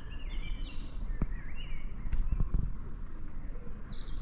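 Small birds chirping in short, quick rising and falling notes over a steady low rumble, with a couple of brief knocks.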